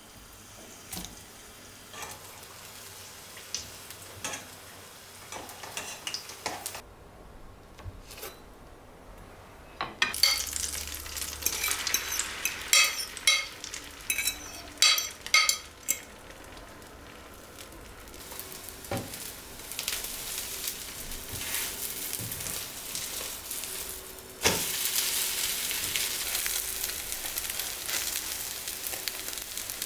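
Cooking sounds: a utensil clinking and scraping against a pan or bowl in a run of sharp taps, then food sizzling steadily in a hot pan, turning louder about two-thirds of the way through.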